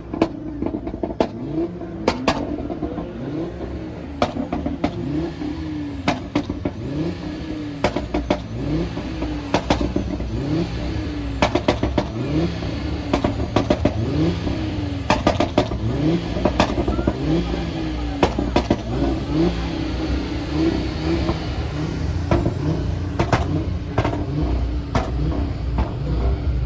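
Performance car engine revving and accelerating over and over, its pitch climbing and dropping back every second or two, with frequent sharp cracks and a low rumble that builds in the second half.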